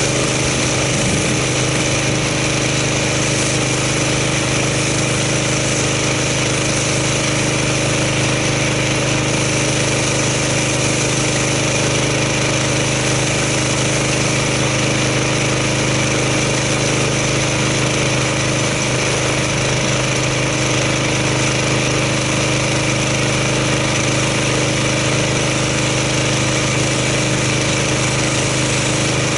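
Gas pressure washer's small engine running at a steady speed while the car is rinsed off with its spray.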